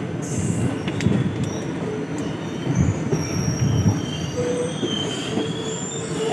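Indian Railways passenger train rolling slowly into a station: a steady low rumble of coach wheels on the rails, with high squeals setting in about two and a half seconds in as it slows.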